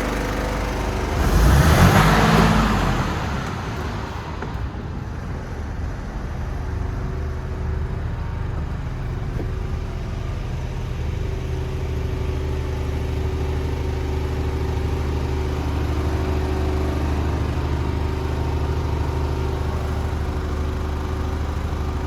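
Mercedes Actros 2551 truck's 510 bhp Euro 6 diesel engine running steadily at idle, with a louder surge of rushing noise about two seconds in.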